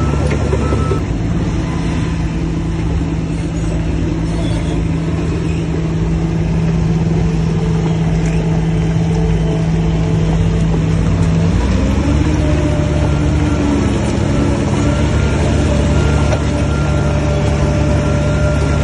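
Heavy diesel engine of earthmoving machinery running steadily, then revving up to a higher pitch about two thirds of the way through.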